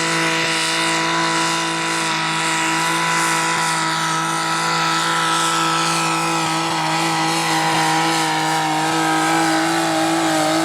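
Mini rod pulling tractor's small-block Chevy V8 running flat out under load, a steady high engine note whose pitch sags slightly partway through and wavers near the end.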